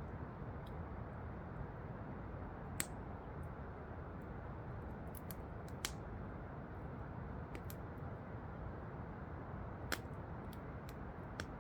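Wood fire crackling, with scattered sharp pops, four of them louder, over the steady rushing of a waterfall.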